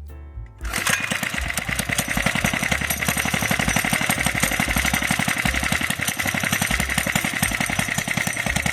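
Mini bike's small engine running steadily with a fast, even beat, coming in loud about a second in.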